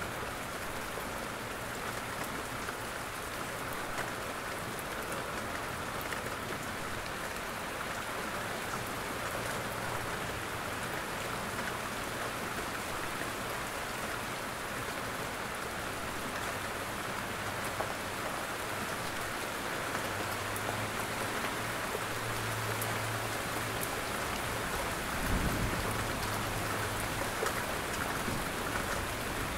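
Steady rain falling on jungle foliage and a roof, with scattered individual drop ticks. A brief low rumble about 25 seconds in.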